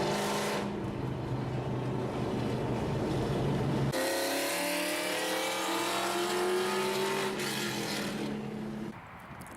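Straight-piped V8 of a 2010 Ford Mustang GT with long-tube headers, running at a steady note. About four seconds in, the sound changes abruptly to an engine note climbing slowly in pitch as the car pulls gently. It drops away shortly before the end.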